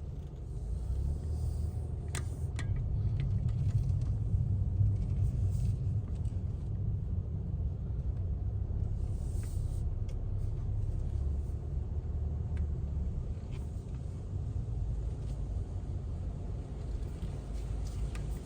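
Steady low rumble of a car, with a few sharp clicks a couple of seconds in and short bursts of hiss now and then.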